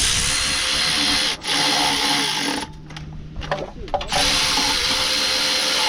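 Electric power tool, its motor running in three bursts: a long run, a brief break, another run, a pause, and a third run starting about four seconds in.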